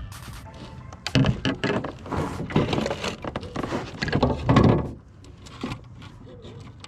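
Crappie and fishing gear being handled in a kayak: a dense run of irregular knocks, thumps and rustles for about four seconds, then quieter.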